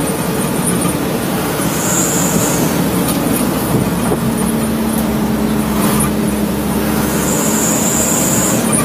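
Truck engine running with road noise; a steady engine drone sets in about four seconds in, and two short high hisses come at about two seconds and near the end.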